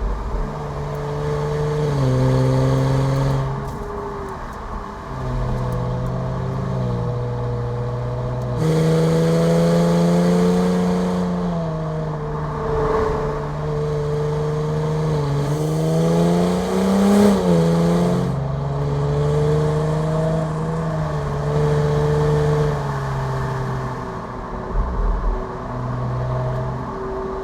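Cadillac CT5 engine and exhaust running and being revved, its pitch holding, then stepping up or down every couple of seconds, with a few quick rises and falls about halfway through.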